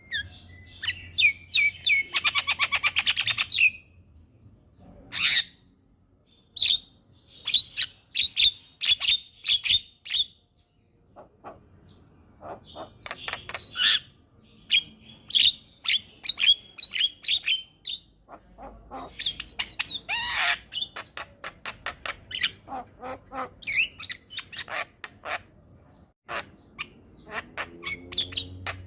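Javan myna (jalak kebo) calling: a run of short, harsh chattering calls, clicks and whistles, with a fast rattling burst about two seconds in.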